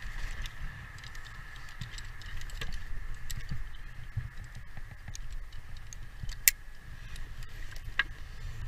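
Light scattered clicks and taps of hand work on a slate roof, with a sharper click about six and a half seconds in and another near the end, over a steady low rumble.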